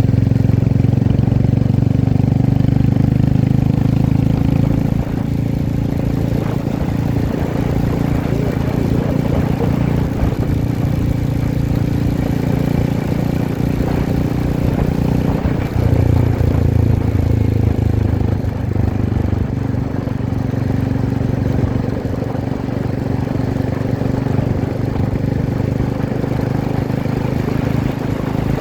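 Royal Enfield Himalayan motorcycle's single-cylinder engine running while riding, with a steady low engine note over road noise. Its pitch and loudness shift about five seconds in and again around sixteen seconds in.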